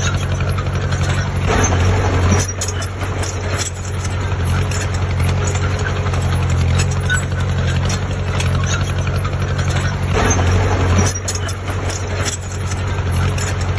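Heavy diesel engine of earthmoving machinery running steadily with a deep hum, with louder, rougher stretches about two seconds in and again about ten seconds in.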